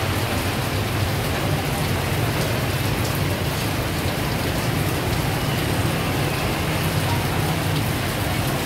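Heavy rain falling steadily on surfaces, with a steady low hum underneath.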